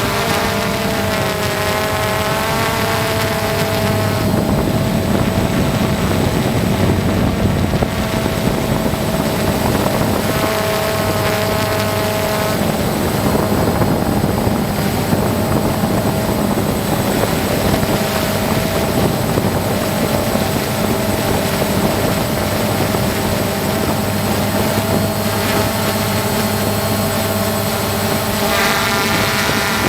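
A loud, steady engine drone with tones that waver slightly in pitch, like an aircraft or helicopter engine running continuously.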